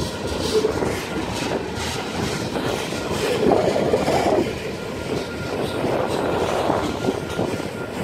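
Freight train of tank cars rolling past at speed, steel wheels rumbling and clacking over the rails, swelling briefly in the middle.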